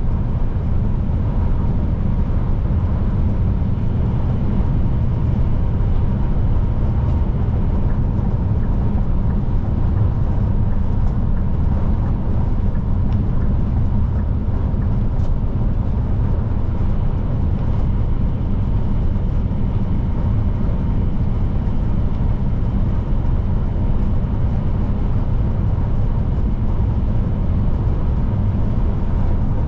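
Scania P310 truck driving steadily at road speed: a loud, even low rumble of engine and tyre noise, with a faint steady high whine over it.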